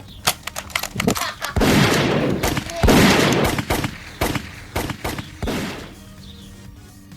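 Gunfire sound effects: a string of sharp single shots, with two longer, louder bursts of fire in the middle, dying away about six seconds in.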